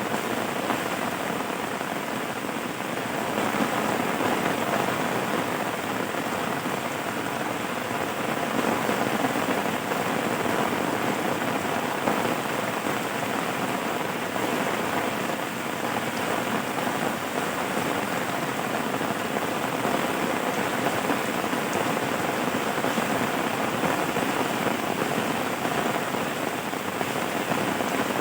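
Steady rainfall, an even unbroken noise.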